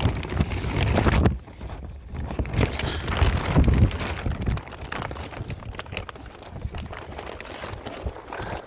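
Wind gusting against the microphone, a low buffeting rumble that surges and eases, with scattered small clicks and knocks.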